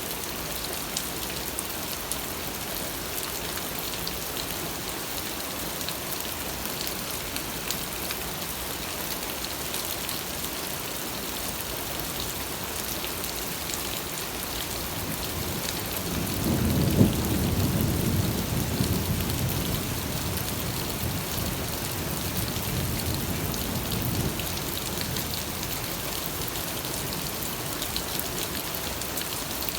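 Steady rain falling, with a roll of thunder rumbling up about halfway through, loudest a second after it begins and dying away over several seconds.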